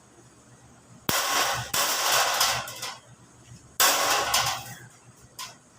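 Plain galvanized sheet metal being bent by hand, rattling and scraping in three harsh, noisy bursts of about a second each, then a short clack near the end.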